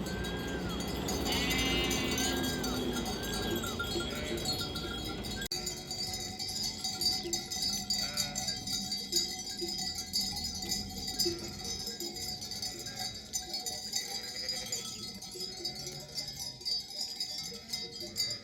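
Sheep bells clanking and ringing continuously as a flock moves, with sheep and lambs bleating a few times in the first few seconds.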